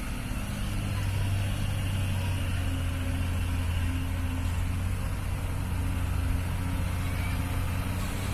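Heavy truck's diesel engine running steadily with a constant low drone.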